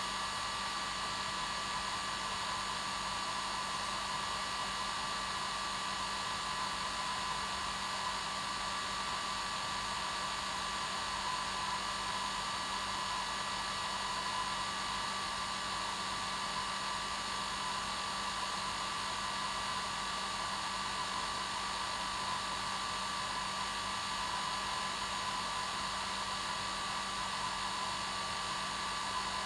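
Hair dryer running steadily: a constant airy rush with a steady motor whine, unchanging throughout.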